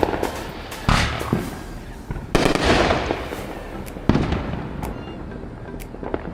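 Firecrackers going off on all sides: a few loud bangs, a long crackling burst about two and a half seconds in, then sharper single pops near the end.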